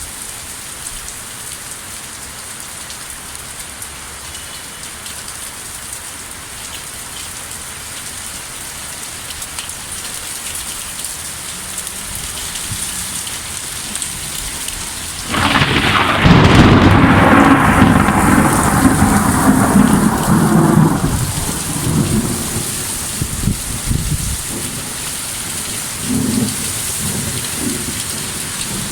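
Steady rain on surfaces during a severe thunderstorm. About halfway through, a sudden loud thunderclap breaks in and rumbles for several seconds before fading back under the rain. A fainter rumble comes near the end.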